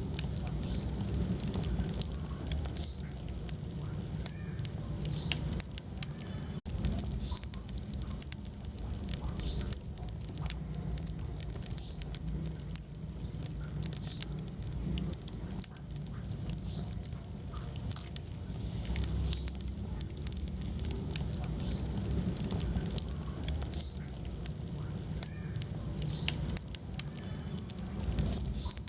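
Wood fire burning in a fireplace: a steady low rumble of flames with frequent small, irregular crackles and pops from the burning wood.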